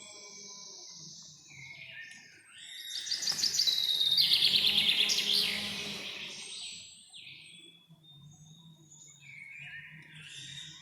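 Wild birds singing: scattered high chirps from several birds, with one loud, fast trilled song that swells about three seconds in and fades out around six to seven seconds.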